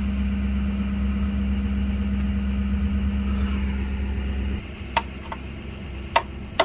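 Engine idling with a steady low hum that cuts off abruptly about four and a half seconds in. Then come about four sharp hammer blows on metal, knocking out the seized, rusted fifth-wheel pin.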